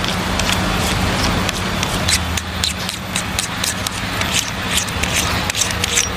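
Irregular small clicks and handling noises over a steady low hum.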